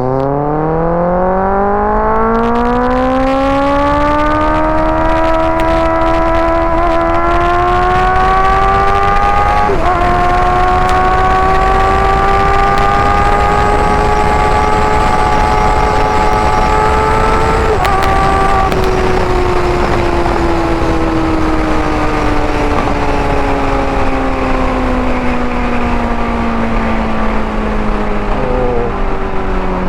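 Kawasaki ZX-6R's 636 cc inline-four running through an IX Race carbon end can with a link pipe and decat, loud. The engine note climbs steeply over the first several seconds and keeps rising gently, with brief breaks about ten and eighteen seconds in, then falls slowly as the bike rolls off.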